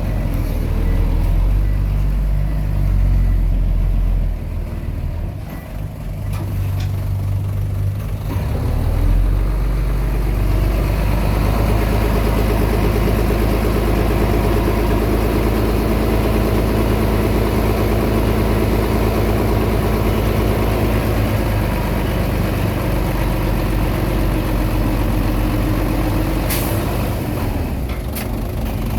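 Komatsu D20P crawler bulldozer's diesel engine running, easing off briefly a few seconds in and then holding a strong, steady pull under load for the rest. A few sharp clicks or knocks come near the end.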